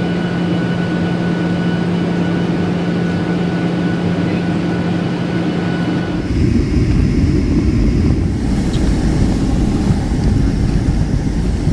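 Steady engine and cabin noise inside an aircraft. A steady hum runs for about the first half, then gives way to a louder, deeper rumble.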